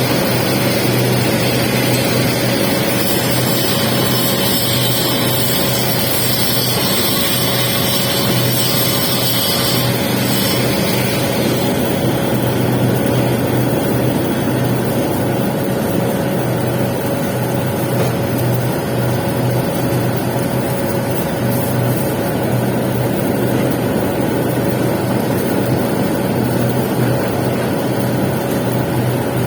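Welding machine running with a steady low drone and a thin constant whine; a higher hiss over it stops about ten seconds in.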